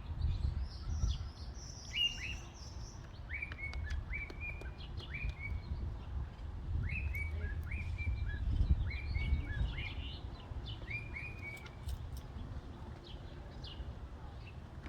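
A bird calling over and over: short chirps, each dropping quickly in pitch, about one a second, over a low rumble.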